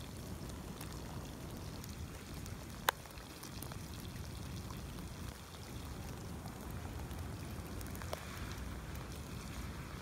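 Steady rain falling, with a sharp tap about three seconds in and a few fainter drop ticks.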